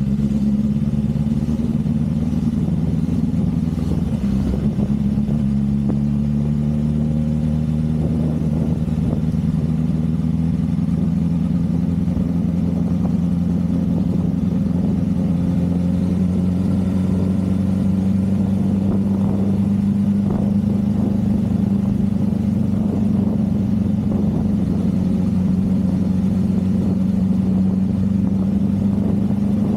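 Motorcycle engine running steadily at cruising speed, its pitch drifting slowly up and down with the throttle.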